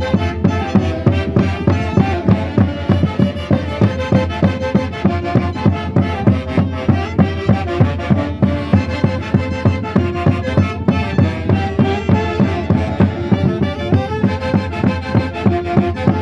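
Andean Santiago-style festival music from a live band, melody instruments over a steady beat of about two to three pulses a second.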